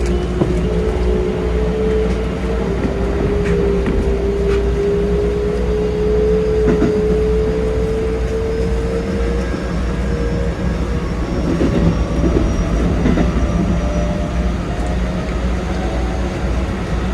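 Keikyu 2100 series electric train's traction motors whining with a slowly rising pitch as it gathers speed, over the steady rumble of wheels on rail, heard from the driver's cab. A few faint clicks sound along the way.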